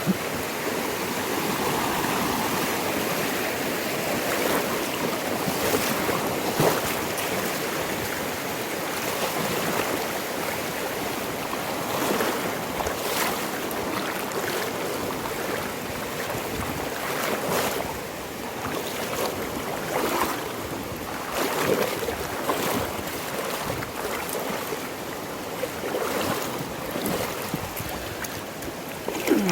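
Swollen river water rushing steadily after heavy rain, with brief sharp sounds now and then.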